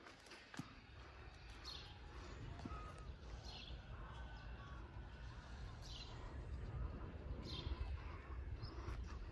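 A bird calling: short, faint down-slurred calls repeated about every two seconds, over a low rumble.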